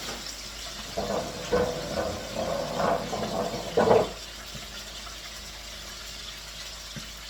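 Chicken pieces deep-frying in hot oil, a steady sizzle. About one to four seconds in, a run of knocks and scraping.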